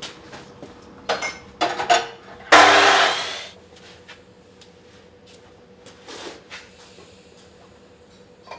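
Metal exhaust-pipe parts being handled on the workbench: a few sharp clinks and knocks, then a scraping, rattling clatter about two and a half seconds in, and a lighter knock later, over a faint steady hum.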